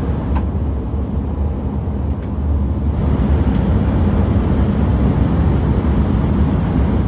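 Steady low rumble of a Shinkansen bullet train running, heard inside the passenger car.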